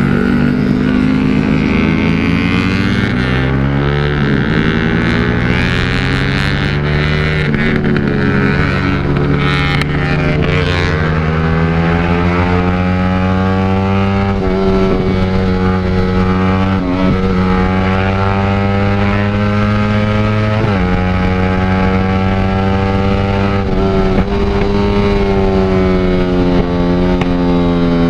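Motorcycle engine with an aftermarket exhaust, ridden under load: its pitch climbs steadily, then drops sharply about every three to four seconds, as through gear changes. Wind noise runs underneath.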